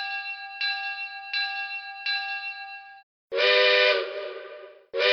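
Lionel LionChief O-gauge train sound effects: a locomotive bell rings four times, about one and a half strokes a second, each stroke decaying. Then a steam locomotive's chime whistle sounds a short blast that fades out, followed near the end by a second, longer blast.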